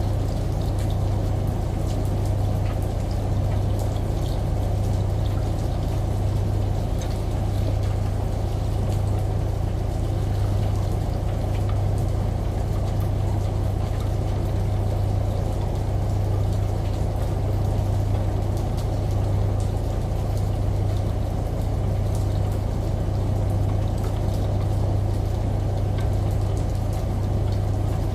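Steady layered ambience of a washing machine's low hum with a slight pulse, over the even rush of running shower water and rain, with scattered faint drips and ticks.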